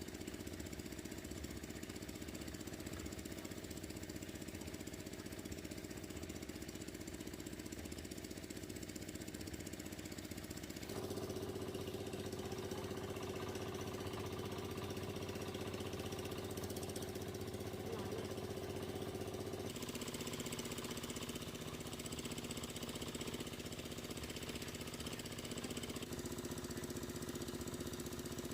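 A small engine running steadily. It gets louder and higher about eleven seconds in, then changes pitch again a little before the twenty-second mark.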